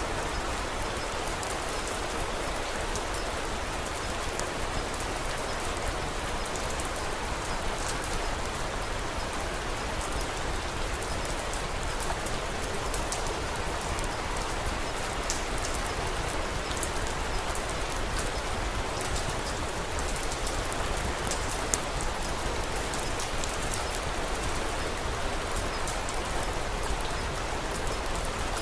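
Steady rain falling, with scattered small sharp crackles of a wood fire mixed in.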